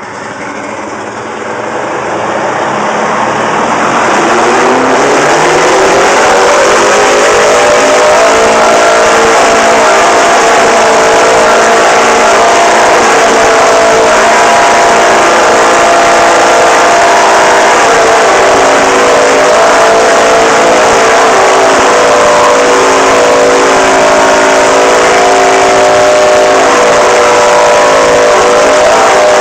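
Old truck's diesel engine in a runaway: its revs climb over the first five or six seconds, then it runs flat out at a loud, steady high pitch, out of control and not responding to being shut down.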